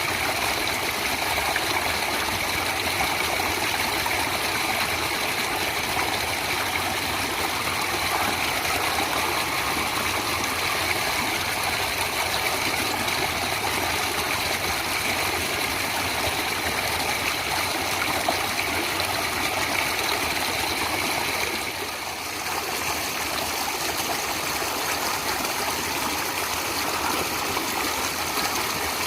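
Water flowing in a natural stream, a steady rushing that dips briefly about three-quarters of the way through.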